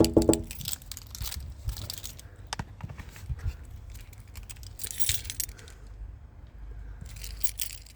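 Scattered light clicks and clinks of small hard objects being handled, with short hissy noises about five seconds in and again near the end.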